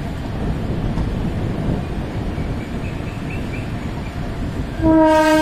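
Passenger train running, a steady low rumble heard from aboard a coach. Near the end the locomotive's horn sounds one loud, steady blast.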